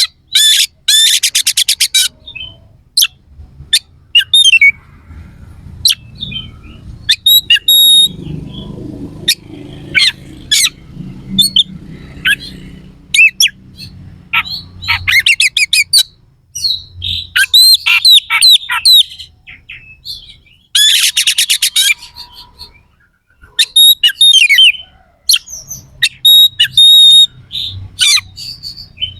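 Oriental magpie-robin (kacer) singing hard in loud bursts: very rapid buzzing trills near the start and again about two-thirds of the way through, between runs of sharp chips and whistled notes. This is the harsh, fast 'isian kasar' style of an excited, on-form male.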